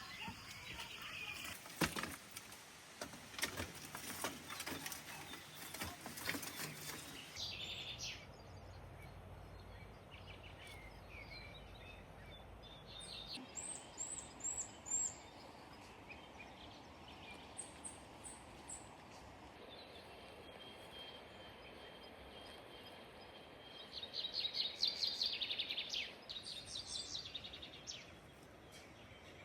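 Birds chirping in short bursts over a quiet outdoor background. A run of knocks and rustles fills the first several seconds, and a louder flurry of calls comes about twenty-five seconds in.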